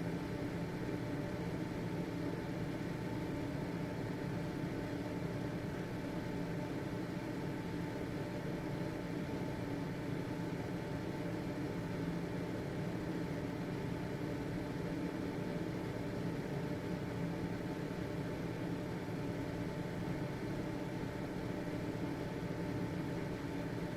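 Household ventilation fan running steadily: an even motor hum with a faint whine over a soft rush of air.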